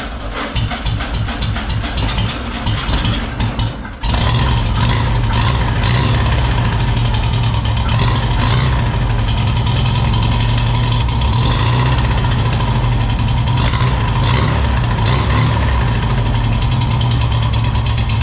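Air-cooled VW Beetle flat-four cranking over in rhythmic pulses as its fuel pump primes, then catching about four seconds in and running steadily. It runs without air cleaners on its dual single-barrel Kadron carburetors.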